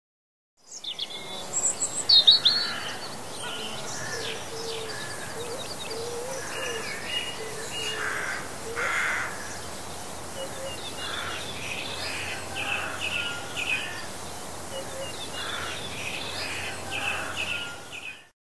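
Several birds chirping and singing together over a steady background hiss, a recorded nature soundscape. It starts just after the beginning and stops shortly before the end. The sharpest chirps come about two seconds in, and quick repeated notes and lower warbles run on throughout.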